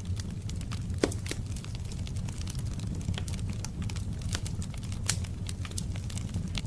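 Wood fire crackling in a fireplace over a steady low rumble, with irregular sharp pops and snaps; the loudest pop comes about a second in.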